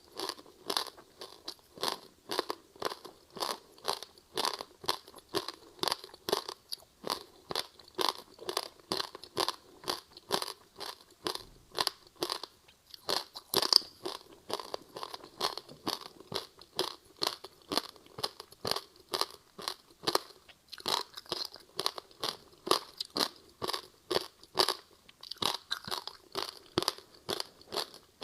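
Frozen passion-fruit ice with sesame seeds being bitten and chewed close to the mouth: a rapid run of crisp crunches, about two to three a second, keeping up steadily with one sharper crack about halfway through.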